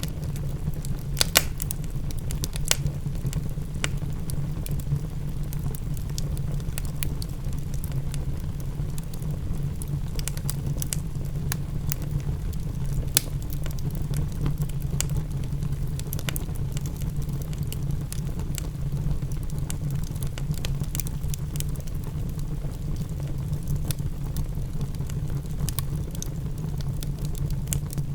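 Wood fire in a fireplace crackling, with scattered sharp pops over a steady low rumble, mixed with the patter of rain.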